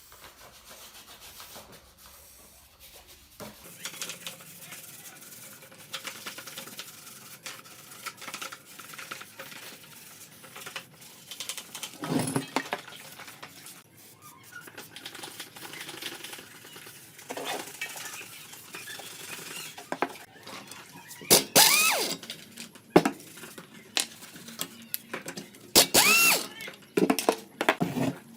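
Hand tools working on the metal parts of a carburetor: scattered clicks, knocks and scraping, with a few loud, short squeaks about three-quarters of the way through and again near the end.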